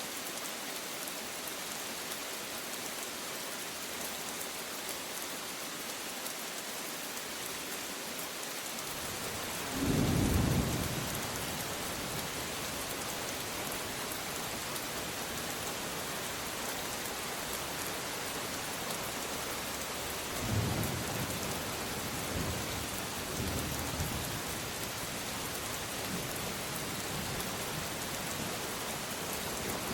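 Steady heavy rain with thunder. A rumble swells about ten seconds in, and further rolls of thunder come from about twenty seconds on.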